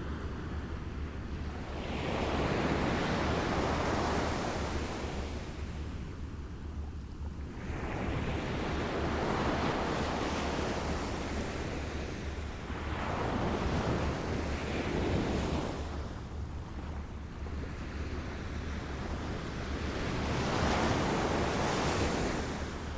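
Small waves lapping on a shore. Each wash swells and fades, four in all, about every five to six seconds, over a steady low rumble.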